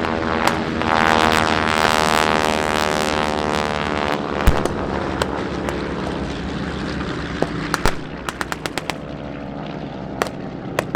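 Propeller warplane flying low past, its engine drone falling in pitch as it goes by. A single sharp bang comes about four seconds in, and near the end there is a quick string of sharp pops of simulated gunfire.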